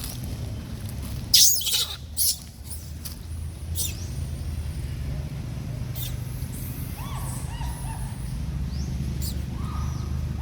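Macaques calling: sharp high squeals about a second and a half and two seconds in, then short coo-like calls near the end, over a steady low rumble.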